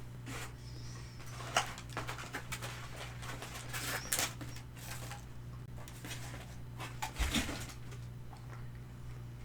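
Close-up crunching and chewing of crispy Korean fried chicken: irregular crackly bites, loudest about a second and a half in, near the middle and near the end, over a steady low hum.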